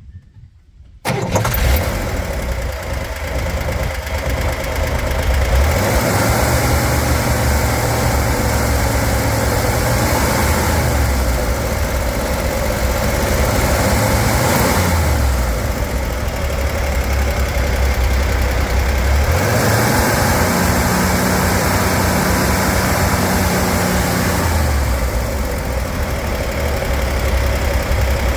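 Corvair's air-cooled flat-six engine starting about a second in, then running and being revved up and let back down several times, to bring out a chattering, hammering noise whose source is being traced.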